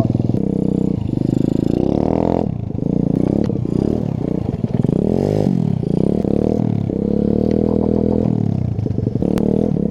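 Pit bike engine revving up and down over and over, its pitch rising and falling with the throttle.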